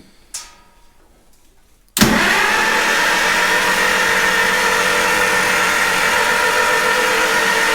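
Starter motor cranking a rebuilt Farmall Super M four-cylinder engine with its spark plugs out, spinning it freely without compression to build oil pressure. It starts suddenly about two seconds in and runs at a steady, even pitch.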